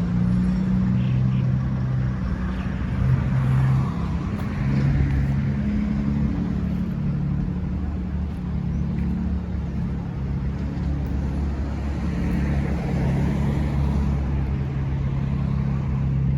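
Diesel engine of a Mercedes-Benz Atego 2426 truck running steadily at idle.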